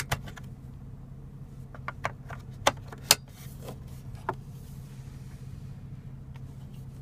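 Scattered sharp plastic clicks and light knocks from a car's centre-console ashtray cover and tray being opened and handled, about half a dozen in the first few seconds, over a steady low hum.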